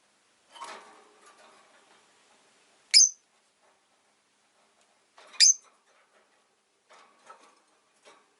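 Rosy-faced lovebird giving two short, shrill, high-pitched chirps about two and a half seconds apart, with softer scratchy rustling before and after.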